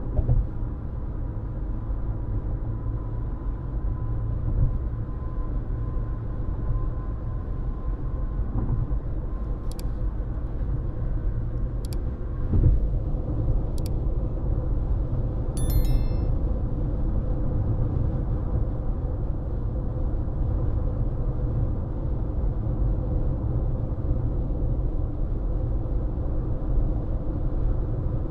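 Car driving at speed, with a steady low rumble of road and tyre noise heard from inside the cabin. A small bump comes about halfway through, and a few faint ticks come around the middle.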